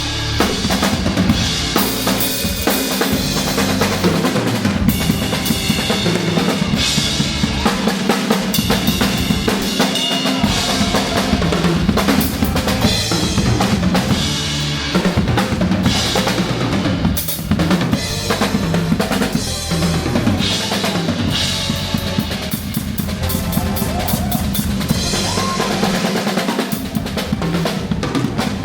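Drum kit played live along to a recorded pop song: dense bass drum, snare and cymbal strikes with fills over the backing track.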